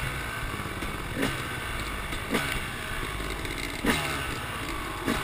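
Dirt bike engine running at low revs, heard from a camera mounted on its handlebars, with four short sharp sounds over the steady running.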